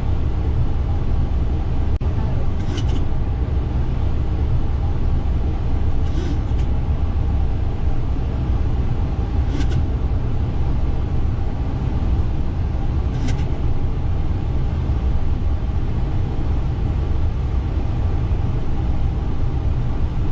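Steady airliner cockpit noise from the engines and airflow in flight after takeoff, a constant low rumble with a faint steady hum, and a faint click about every three and a half seconds.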